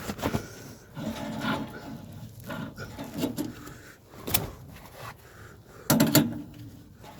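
A string of knocks and clatters from tools and parts being handled during plumbing work, with a louder cluster of knocks about six seconds in.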